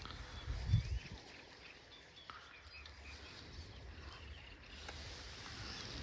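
Faint bird chirps over a quiet outdoor background, with a brief low rumble in the first second.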